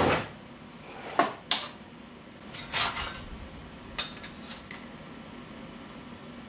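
A loud noisy burst dies away right at the start, then a few separate sharp metallic clinks and knocks of steel tools and parts being handled on the bench.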